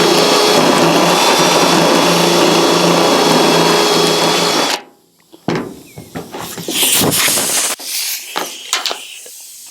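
Electric drill with a spot weld cutter bit running steadily as it cuts through a spot weld in the truck's sheet-steel roof skin, stopping suddenly about five seconds in. Then a few quieter scrapes and knocks.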